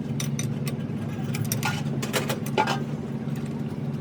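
An engine running steadily at a constant speed, with a series of sharp clinks and knocks over it, the loudest group about halfway through.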